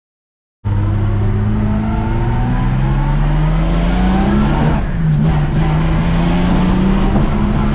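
Ford Capri 3.0 race car's V6 engine pulling under load, its note rising slowly, then dropping at what sounds like a gear change about five seconds in and climbing again. The sound starts abruptly a little over half a second in.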